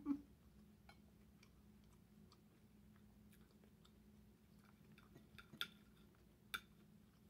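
Faint close-up chewing with small wet mouth clicks, then a few sharp clicks of a knife and fork against a plate, the loudest about five and a half and six and a half seconds in.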